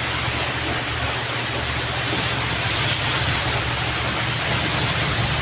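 Heavy truck engine running steadily, with a broad rush of wind and road noise over it.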